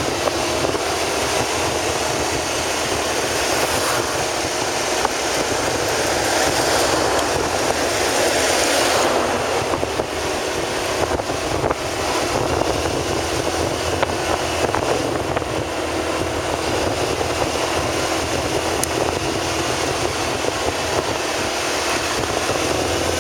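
Steady road and wind noise from a vehicle travelling across a bridge, a continuous rushing with no changes.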